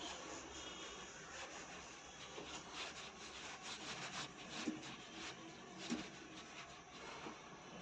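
Faint handling noise: a water hose being fitted to a washing machine, with light rubbing and a few small clicks and knocks, two of them a little louder about five and six seconds in.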